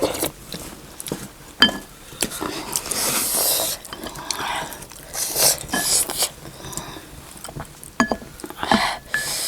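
A spoon clinking against a soup bowl several times, with short ringing clinks, between eating noises.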